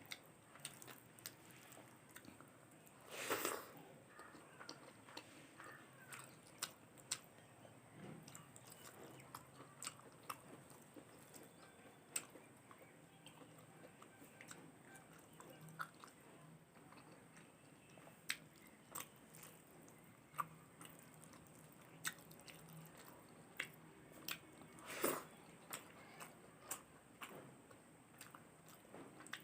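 A person chewing and biting food, with many small sharp mouth clicks throughout and two louder bites, one about three seconds in and one near the end.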